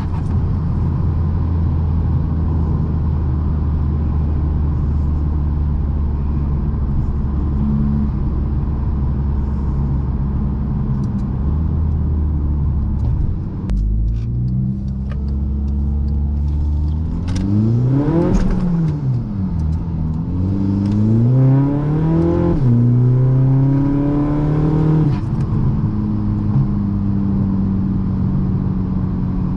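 Big-turbo 2.0 TDI common-rail diesel in a tuned VW MK6 GTD on the road: a steady cruising drone, then from about halfway the engine pulls hard with its pitch rising. Gear changes drop the pitch about two-thirds of the way in and again a few seconds later, before it settles back to a steady cruise.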